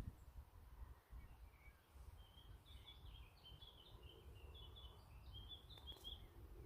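Faint songbird twittering: a quick run of short high chirps from about two seconds in, over a low wind rumble.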